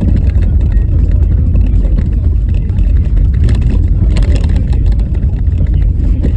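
Steady, loud low rumble of a car's tyres and body driving over a rough, snow-covered road.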